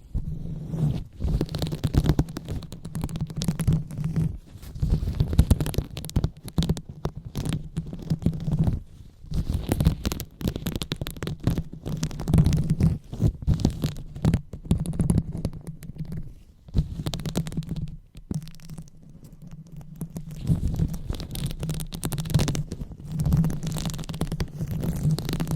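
Fingers rubbing and scratching directly on a microphone, the ASMR 'brain massage' trigger: close, crackly rubbing with a low rumble, in stretches with brief pauses, the longest pause a little past the middle.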